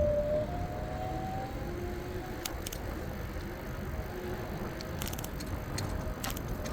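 E-bike underway: steady wind and road rumble, with a faint whine rising in pitch in the first second or two as it pulls away. Several sharp rattling clicks from the bike come in small clusters through the middle and near the end.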